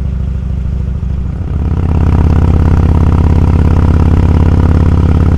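Motorcycle engine running, getting louder and higher about a second and a half in as the throttle opens, then pulling steadily.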